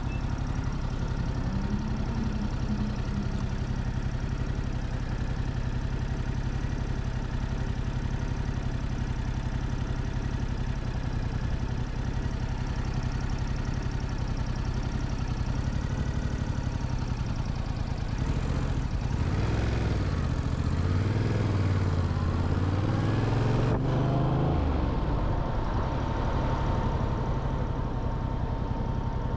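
Motorcycle engine idling steadily, then revving up a little past halfway, its pitch rising and falling through a few gear changes and getting louder, before settling back to a steady run.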